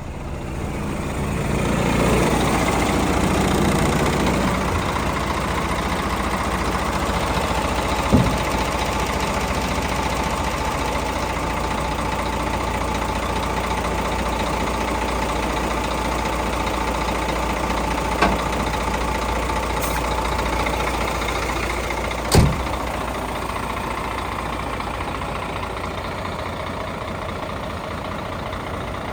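Scania P114 dump truck's 11-litre inline-six diesel engine running steadily. It rises a little over the first two seconds, with three short sharp knocks spread through the rest.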